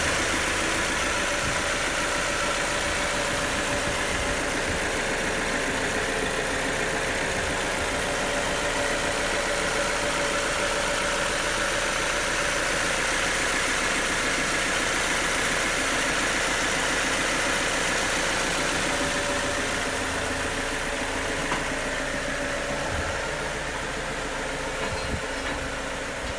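BMW N45B16 1.6-litre four-cylinder petrol engine idling steadily, just refitted with a new timing chain and guide rails.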